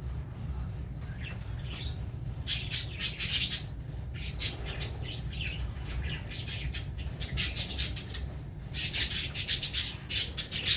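Budgerigars chattering and squawking in harsh, scratchy bursts that come in clusters, over a steady low hum.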